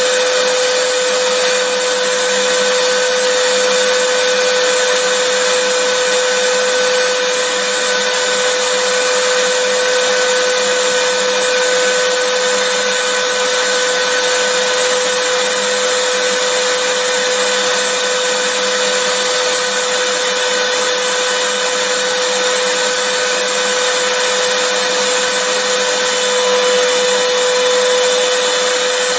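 Vacuum cleaner running steadily: a constant motor whine over a rushing airflow hiss, with no change in pitch or level.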